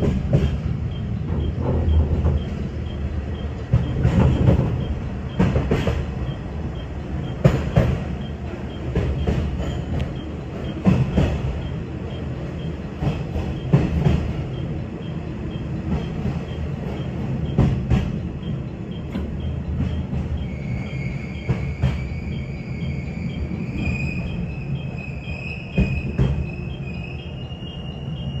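A 117-series electric train running slowly into a station platform, heard from inside the driver's cab: a steady low rumble broken by irregular clunks as the wheels cross rail joints and points. About two-thirds of the way in, a high squeal starts and slowly rises in pitch.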